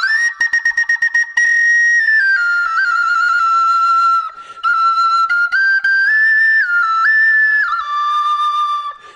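Solo flute playing a slow melody of held high notes, with a quick run of repeated tongued notes near the start and a short breath pause about halfway through.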